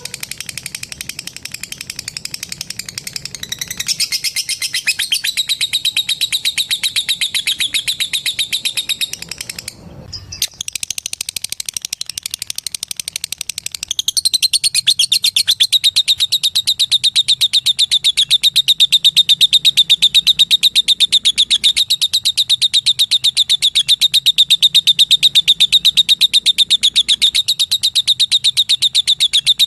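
Female lovebird chattering in a long, fast, unbroken trill of high notes, the kind of run keepers call ngekek. It breaks off briefly about ten seconds in, then comes back louder and steadier from about fourteen seconds on.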